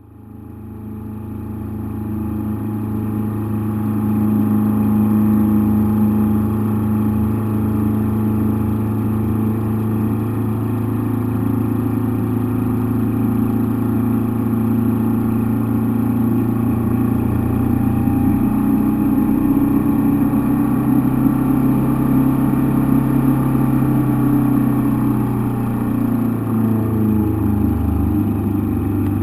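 An engine running at a near-steady speed, heard from inside the cockpit. It fades in over the first few seconds, then holds an even drone with only small shifts in pitch.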